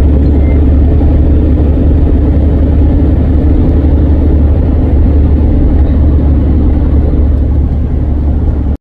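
Steady low rumble of a moving road vehicle, with no breaks or changes in pitch.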